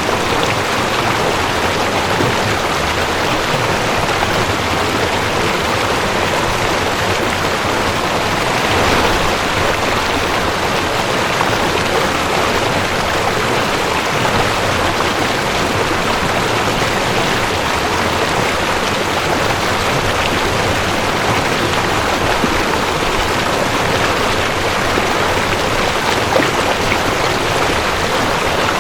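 Mountain stream rushing over rocks: a steady, even rush of running water.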